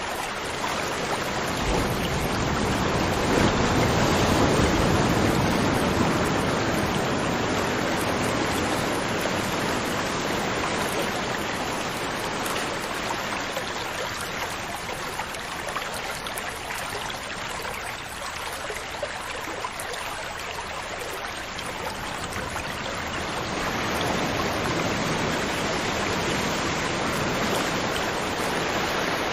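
River water flowing, a steady rushing with no other sound. It swells a little a few seconds in and eases off around the middle.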